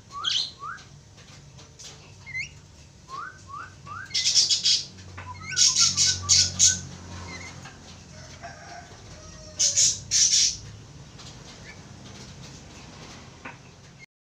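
Javan myna calling: a few short rising whistles, then three bouts of loud, harsh squawking about four, six and ten seconds in.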